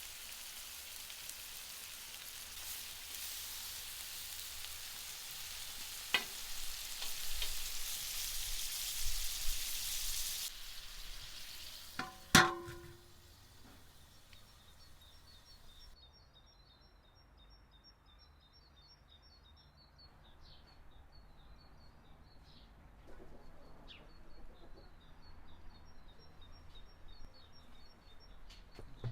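Food frying, a steady sizzle with a few small pops and clicks. About twelve seconds in there is one sharp knock with a brief ring, and then the sizzle is gone, leaving a quiet outdoor background with small birds chirping repeatedly.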